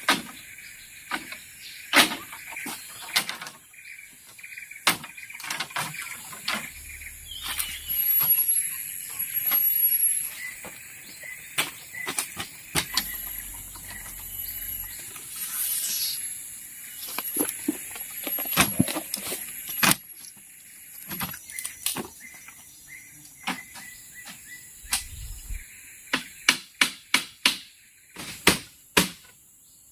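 Irregular sharp knocks and taps of bamboo being worked by hand, with a quick run of evenly spaced strokes near the end, over a faint steady high insect buzz.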